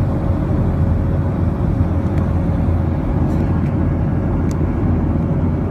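Steady cabin drone of an airliner in flight: deep, even engine and airflow noise with a thin steady tone running through it.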